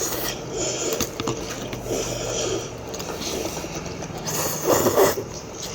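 Close-up eating of instant noodles: slurping and chewing with scattered light clicks, and one louder slurp-like burst about five seconds in.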